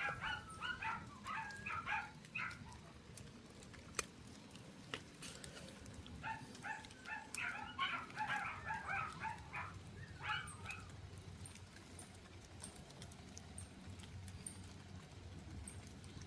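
An animal giving quick, high-pitched calls, several a second, in two bouts: one at the start and another from about six to eleven seconds in, with a single click between them.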